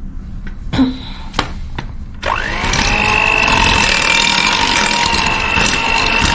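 A few light knocks, then about two seconds in an electric mixer switches on: its motor whine rises quickly and runs steady and loud as it beats the buttercream.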